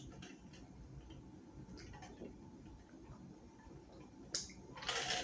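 Faint wet mouth clicks and smacks from close-up chewing, with a sharper smack about four and a half seconds in and a louder one just before the end.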